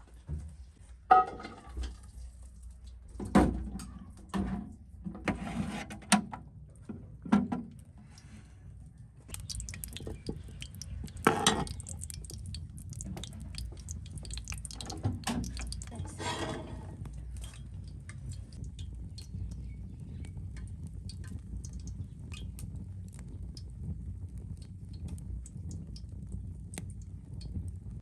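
Scattered knocks and clinks of handled objects, then a steady low rumble from about a third of the way in, with a few more knocks over it.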